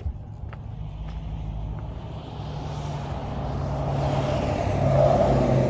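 A motor vehicle's engine running steadily, with road noise that swells to its loudest about five seconds in, as a vehicle passes or pulls up close.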